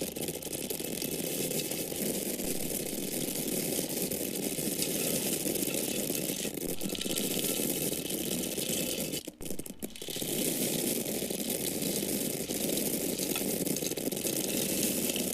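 Dried corn kernels pouring in a steady stream, a dense patter of many small hard grains landing, with a brief break about nine and a half seconds in before the pour resumes.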